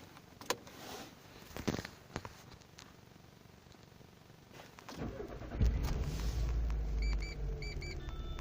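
A few clicks, then about five seconds in a Mitsubishi car engine is started and settles into a steady idle. Short paired electronic beeps sound near the end.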